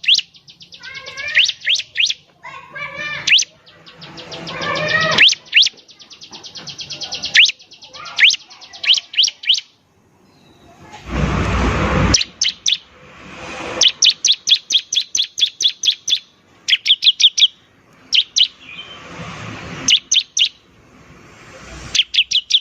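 Bar-winged prinia (ciblek) singing vigorously: rapid series of sharp upsweeping chirps and fast rattling trills, with a harsh buzzy burst about eleven seconds in.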